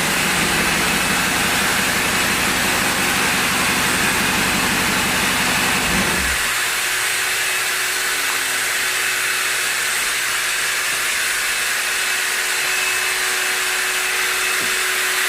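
Dodge Challenger engine running through its new exhaust with a low, steady note, then shut off abruptly about six seconds in. A steady hiss carries on throughout.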